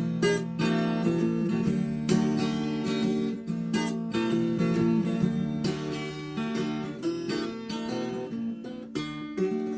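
Acoustic-electric guitar played plugged in through its under-saddle piezo pickup, strummed chords ringing on. The G, B and high E strings come through very quiet, a fault the player puts down to the piezo under the saddle.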